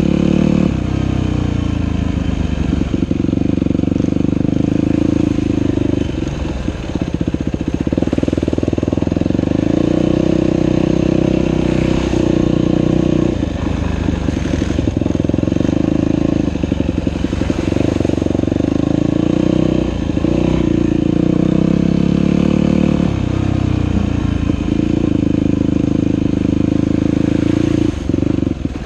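Dirt bike engine running under throttle while riding a trail. The throttle is rolled off briefly several times, and the engine note drops and turns choppy before picking up again.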